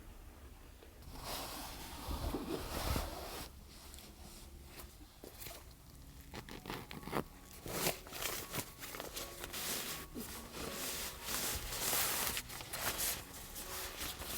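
Rustling and crinkling of material being handled, with small scrapes and clicks, starting about a second in and going on in uneven bursts.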